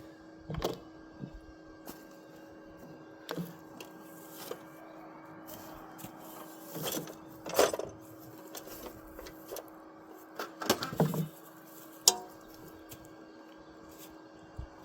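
Irregular knocks and clatters of building materials being handled and set down, with a busier run of clatters near the end and one sharp knock just after it, over a steady low hum.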